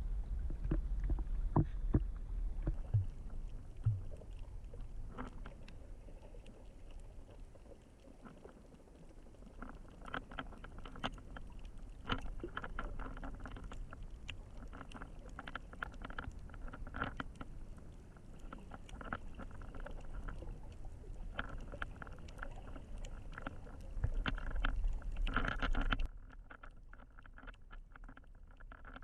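Muffled water noise from a GoPro in its waterproof housing while snorkeling: a low rumble with many scattered clicks and crackles, dropping suddenly near the end.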